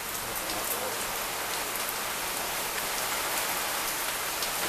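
Heavy rain pouring down steadily, with scattered individual drops ticking on nearby surfaces.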